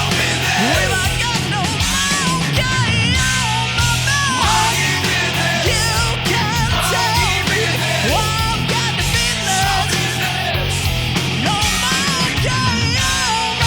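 Hard rock music, loud and even throughout. A lead melody bends, slides and wavers in pitch over a steady bass line.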